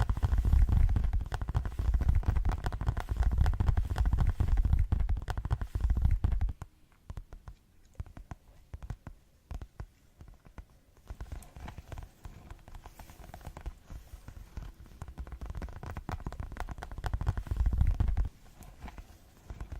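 Fast ASMR tapping close to the microphone: a rapid patter of taps with heavy low thuds, dropping about six seconds in to sparse, quieter taps, building again and turning heavy and thudding for a moment shortly before the end.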